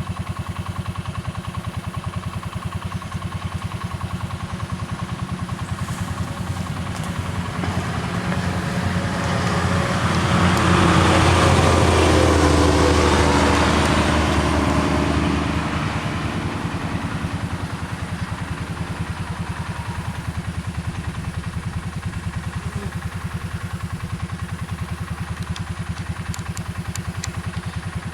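A vehicle engine runs steadily at idle with an even, fine pulse. About ten seconds in, a louder sound swells up and falls in pitch as it passes, fading out again by about sixteen seconds.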